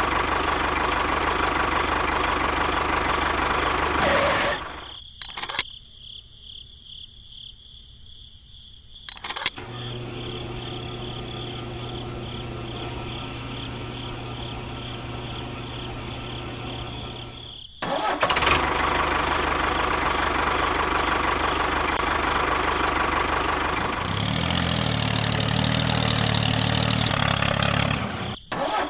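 A motor running steadily in several stretches that break off and change abruptly, with a quieter stretch broken by two sharp clicks early on and a steady low hum in the middle.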